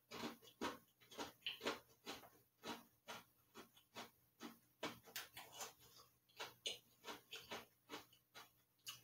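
A white-fudge-covered Oreo being chewed close to the microphone: a run of quiet, irregular crunching clicks, several a second.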